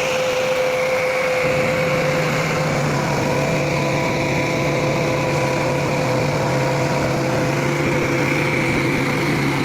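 A machine's engine running steadily, with a deeper hum joining in about a second and a half in.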